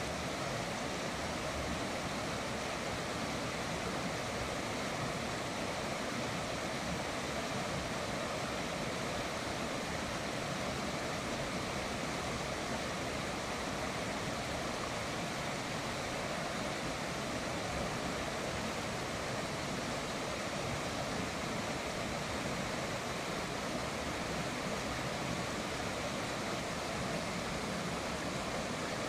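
River water flowing, a steady even rushing with no individual splashes standing out.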